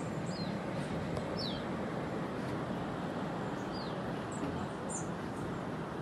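A few small birds chirping, short quick falling notes several times, over a steady rushing outdoor noise.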